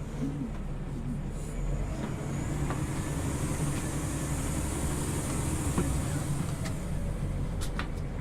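Scania OmniLink CL94UB city bus heard from inside the passenger cabin while under way: a steady engine drone with road noise and a few light rattles.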